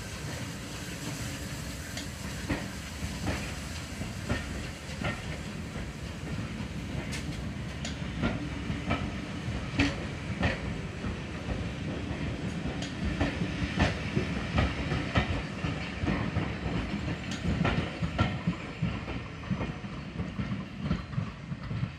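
Railway passenger coaches rolling past as the train pulls away, their wheels running with a low rumble and knocking out irregular clicks over the rail joints.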